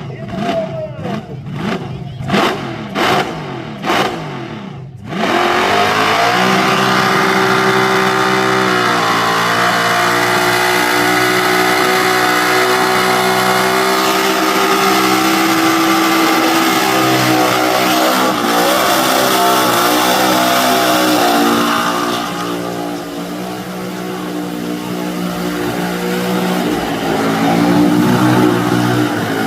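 XP Falcon burnout car's engine blipped in about six short sharp revs, then held at high revs in a sustained burnout. The revs ease off for a few seconds late on, then climb again near the end.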